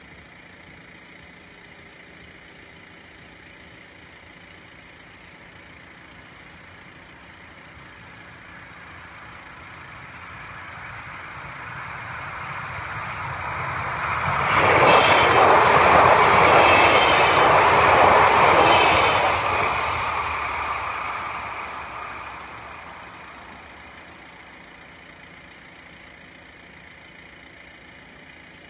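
A Bombardier Talent diesel multiple unit passes over the level crossing. It is heard coming closer, is loudest for about five seconds in the middle, then fades away.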